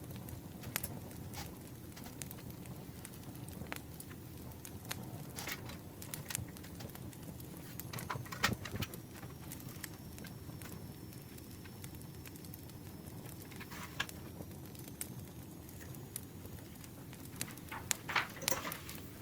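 Campfire crackling over a low steady rumble, with scattered sharp clicks and rustles of paper-crafting stationery being handled; the clicks come thickest about eight seconds in and again near the end.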